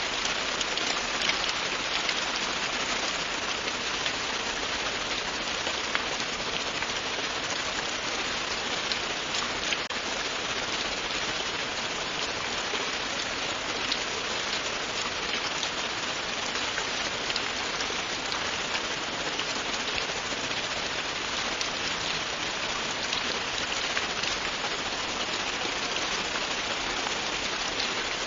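Steady, continuous rain falling on a surface, an even hiss with faint scattered drop ticks.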